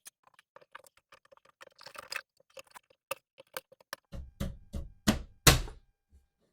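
New bathroom exhaust fan cover being handled and fitted into the ceiling fan housing: a string of light plastic clicks and rattles, then from about four seconds in several heavier thumps as the cover is pushed up into place, the loudest near the end.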